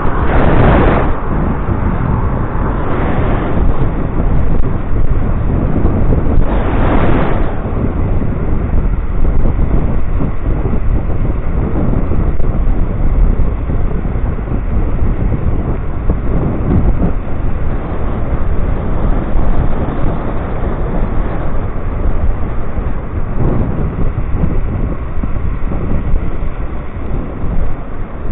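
Wind buffeting the microphone of a rider moving on an electric scooter: a heavy, steady low rumble, with a few louder gusts in the first eight seconds.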